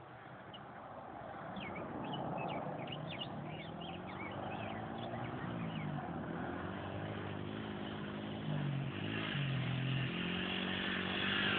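Dirt bike engine running, its pitch rising and falling with the throttle and growing louder as it comes closer. Birds chirp during the first few seconds.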